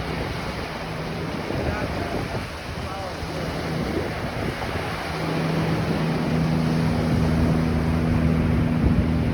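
Ocean surf washing onto a beach, with wind buffeting the microphone. A steady low hum comes in about halfway through and grows a little louder toward the end.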